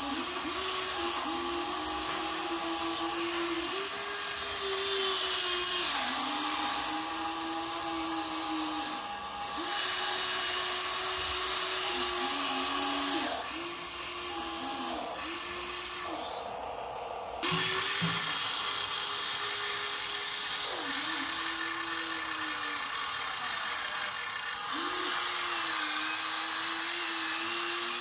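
Small electric motor and gearbox of a toy RC dump truck whining in short runs, the pitch stepping up and down as the throttle changes. About two thirds of the way in, a louder, higher whine joins and carries on.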